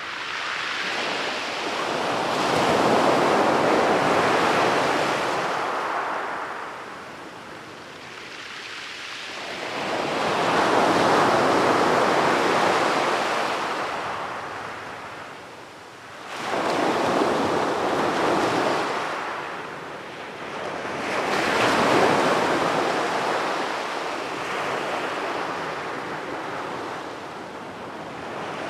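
Sea waves breaking on a beach, the surf rising and falling in a swell every six to eight seconds, with a sharper break about halfway through.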